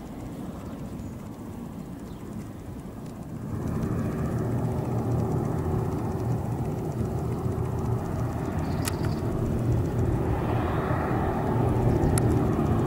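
Engines of a landing aircraft approaching: a low rumble steps up about three and a half seconds in to a louder, steady hum that keeps growing as the plane comes nearer, with a rising hiss toward the end.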